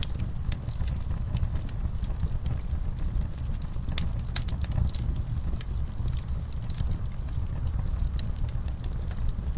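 Wood fire burning in a fireplace: irregular crackles and sharp pops over a steady low rumble of the flames, with a cluster of louder pops about four to five seconds in.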